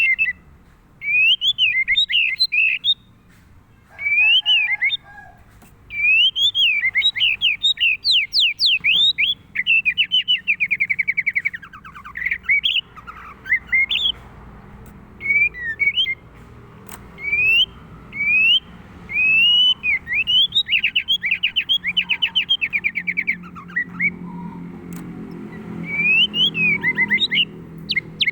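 White-rumped shama singing: loud, varied phrases of clear whistles and rapid trills, coming in repeated bursts with brief pauses.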